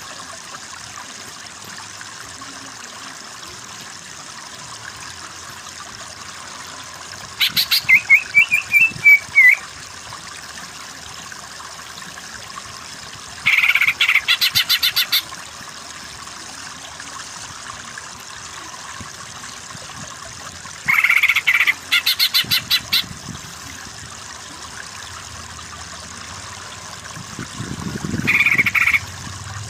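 Greater green leafbird (cucak ijo) calling in four short bursts of rapid chattering notes, the first ending in a wavering whistle, over a steady hiss of flowing water.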